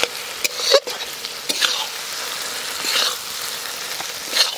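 Sal mushrooms and boiled red lentils frying in a kadai with a steady sizzle, stirred with a spatula that scrapes and knocks against the pan a few times.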